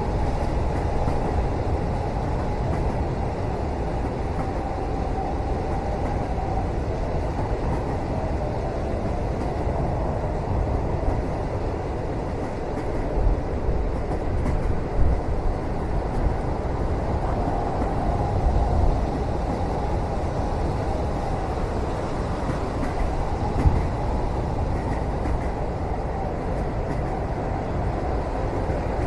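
Moving train heard from inside a passenger cabin: a steady low rumble of the carriage running along the rails, with a couple of brief louder knocks, one about halfway through and one later.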